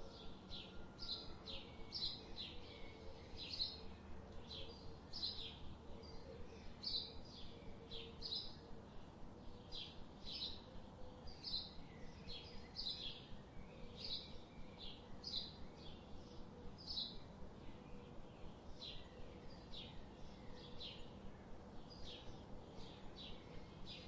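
Canada goose goslings peeping: a continuous stream of short, high peeps, about two a second.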